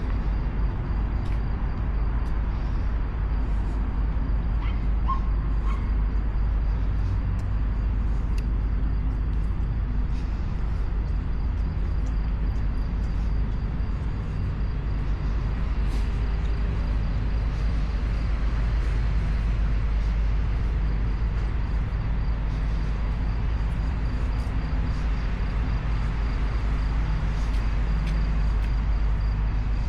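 Steady low rumble with a continuous machine-like hum and a faint high steady whine, and a few small clicks scattered through.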